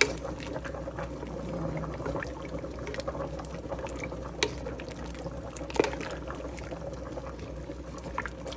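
A pot of chicken soup boiling, a steady bubbling, with a couple of sharp clinks about four and six seconds in.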